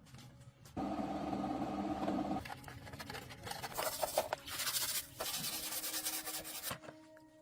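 Changing stretches of workshop hand-work noise: a steady hum about a second in, then rough rubbing and sanding sounds in short bouts.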